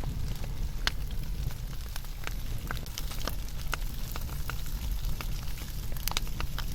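Wood fire in a campfire pit crackling, with sharp, irregular pops over a low steady rumble.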